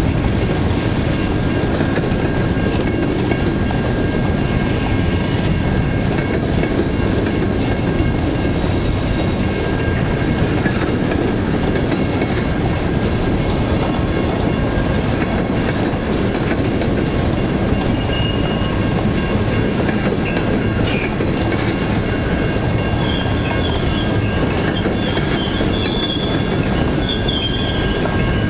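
Freight train's covered gondola cars rolling past close by: a steady rumble of steel wheels on the rail, with a thin high ringing squeal held throughout. Short higher wheel squeals come and go, more often near the end.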